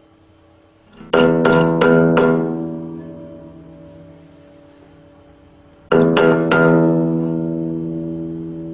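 Guitar strings plucked in two quick runs of about four notes each, about five seconds apart. Each run rings on and fades slowly.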